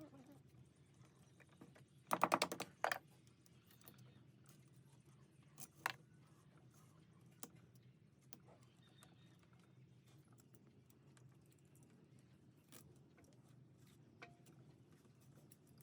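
A quick, dense run of sharp clicks about two seconds in, then a single louder click and scattered light ticks and taps over a faint steady low hum.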